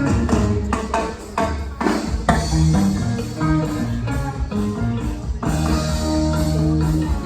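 Live band playing, with guitar and drums.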